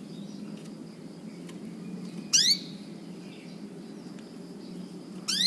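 Canary giving two short, sharp upward-sweeping calls about three seconds apart, an odd call rather than its song.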